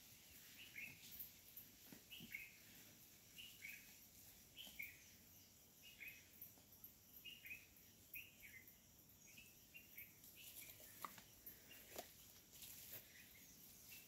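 Faint bird calling in forest: a steady series of short, high, falling notes given in pairs, about one pair every two-thirds of a second, stopping about ten seconds in. A couple of faint snaps, like twigs underfoot, near the end.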